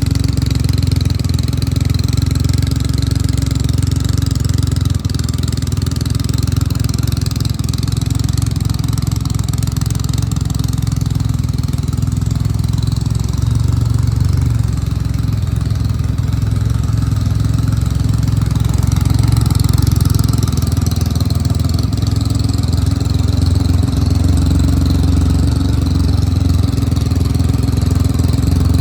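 Triumph Rocket III motorcycle's inline three-cylinder engine idling steadily, with a slight swell in level about twenty seconds in.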